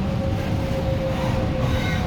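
MTR Tung Chung Line K-train, a Hyundai Rotem electric multiple unit, running: a steady low rumble of wheels on rail under a steady two-note electric whine, with a faint thin squeal near the end.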